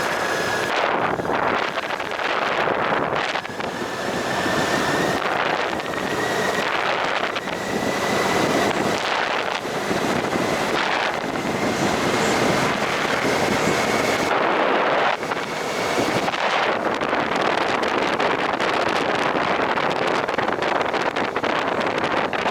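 Heavy wind noise buffeting the microphone of a moving motorcycle, with a faint high whine from the bike slowly rising in pitch before dropping out about sixteen seconds in.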